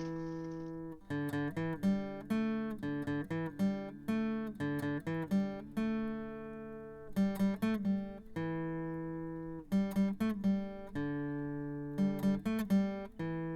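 Intro music: acoustic guitar picked and strummed, plucked notes ringing out over held chords.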